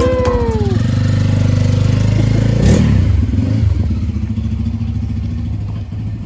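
Motorcycle engine running steadily at idle, with a brief louder burst about three seconds in.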